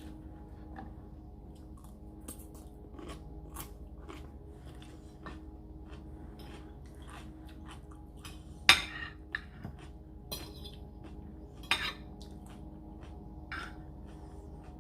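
Close-up eating sounds: utensils clinking and scraping on a plate and chewing of noodles and fried rice, with two sharper clinks about nine and twelve seconds in.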